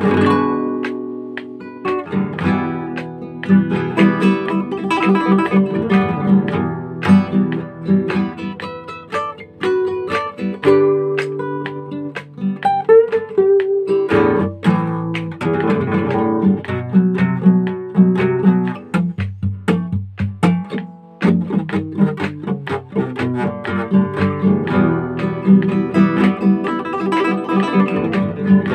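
Solo acoustic guitar playing an instrumental piece, mixing picked melody notes with strummed chords.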